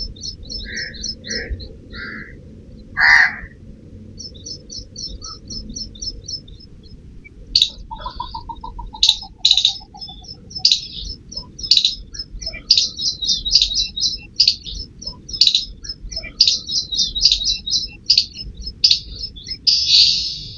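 Birds chirping: fast trains of high, short chirps, with a falling trill and a busier run of louder chirps and sharp notes in the second half.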